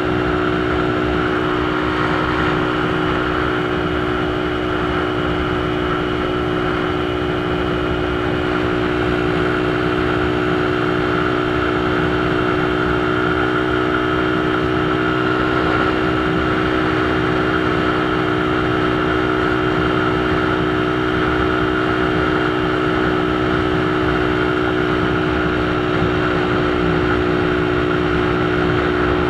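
Motorcycle engine running at a steady speed with a constant hum, its pitch holding level throughout, over a steady rush of noise.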